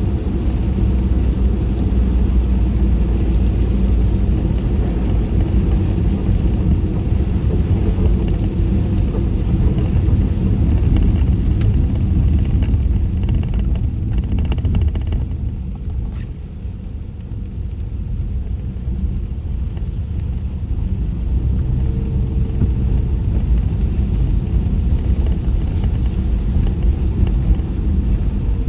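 Road noise heard inside a closed car cabin while driving in rain: a steady low rumble of tyres on wet pavement, with a hiss that fades about halfway through as the noise eases off briefly, then builds back up.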